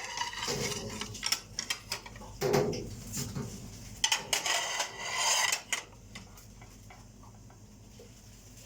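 Kitchen clatter of dishes and utensils being handled, a run of sharp clicks and knocks, with a brief rushing noise about four seconds in; it goes much quieter from about six seconds in.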